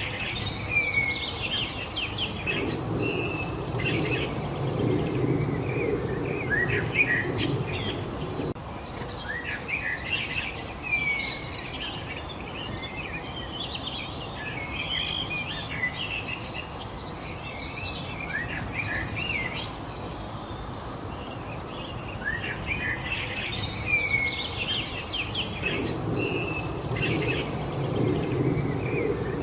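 Several songbirds chirping and singing at once, short quick high notes and trills throughout. A low rushing noise underneath swells for several seconds near the start and again near the end.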